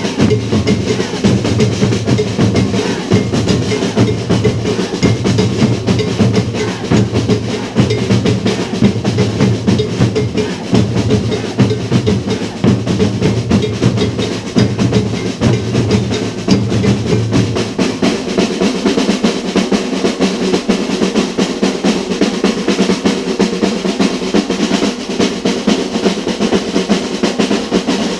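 Percussion ensemble drumming at a fast, dense rhythm, with snare-like rolls over deep bass drums. The deep bass drums drop out about two-thirds of the way through while the lighter drumming carries on.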